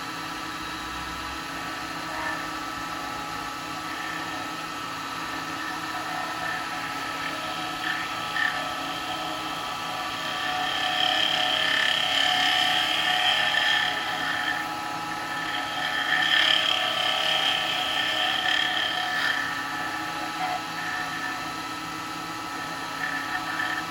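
Wood lathe running steadily with an oak bowl spinning while a block of dark brown beeswax is pressed against the turning wood. A louder, high-pitched squeal comes in two stretches in the middle.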